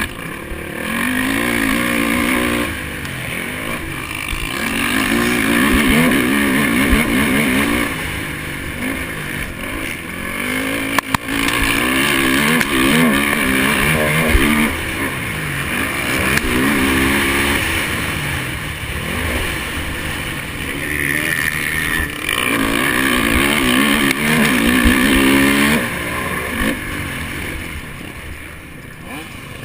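Honda 450 motocross bike's single-cylinder four-stroke engine racing, revving up and dropping back over and over as the throttle is worked, over a steady rushing noise.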